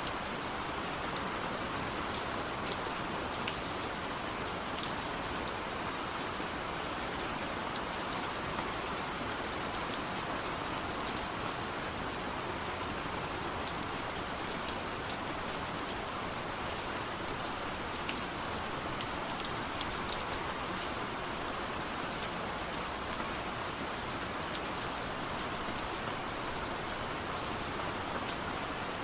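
Steady rain falling on a surface, a continuous even hiss dotted with many fine individual drop ticks, no thunder.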